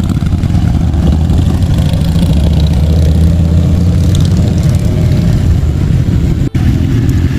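Motorcycle engine running steadily at low revs. It breaks off for an instant about six and a half seconds in, then carries on.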